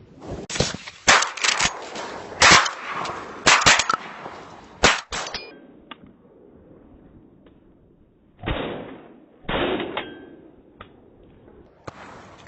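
A rapid run of sharp bangs, about a dozen in the first five seconds, then two short noisy bursts a second apart.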